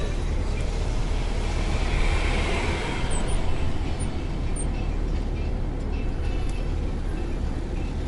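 Bus driving along a road, heard from inside the cabin: a steady low engine and road rumble with tyre noise.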